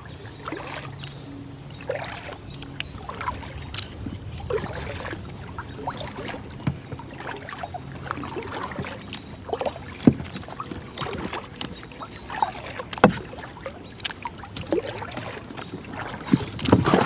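Kayak paddling on a river: paddle strokes dipping and dripping water, with scattered knocks of the paddle against the hull. A louder burst of noise comes near the end.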